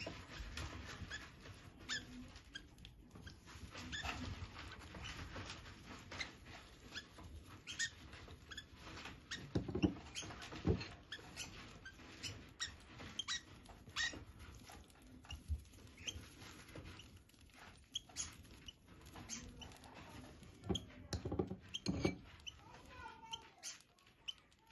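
Pet lovebirds feeding: a steady scatter of soft clicks and taps from beaks on seed and feet on the cage, with a few louder knocks and some faint squeaky chirps.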